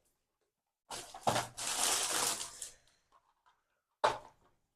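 Packaging crinkling and rustling for about two seconds as a package is unwrapped, with a sharp click in the middle, then a single sharp tap near the end.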